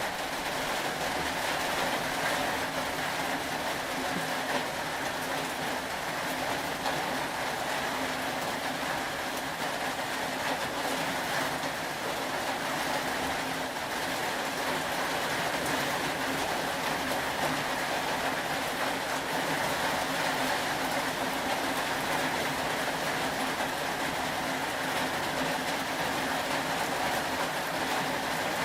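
Steady rain ambience: a continuous, even wash of noise with no breaks or distinct events.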